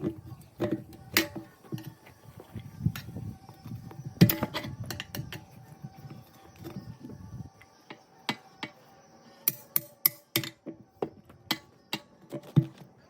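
Steel tire bars knocking and scraping against a steel truck wheel while an 11R22.5 tire is pried off the rim by hand, in irregular sharp knocks with the loudest about four seconds in.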